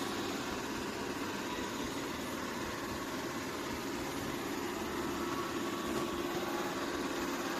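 Dreame X50 Ultra robot vacuum running: a steady whir of its suction fan and motor with a constant low hum.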